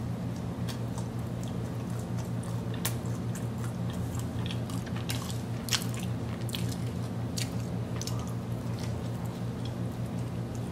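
A person chewing a mouthful of soft glazed cinnamon roll with the mouth open, with many small wet smacking clicks, over a steady low hum.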